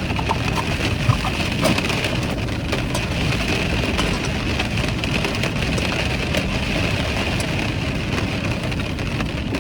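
Steady rain falling on a parked car, heard from inside the cabin, with a few faint drop ticks.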